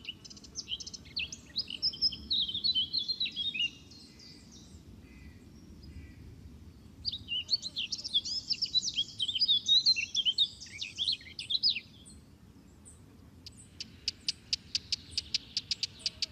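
Songbirds chirping in quick runs of high, sliding notes, in two busy spells with a lull between. Near the end comes a fast, even series of short ticking chirps, about eight a second.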